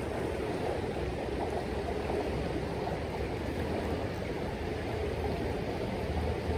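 Steady rush of flowing creek water, with a low rumble underneath.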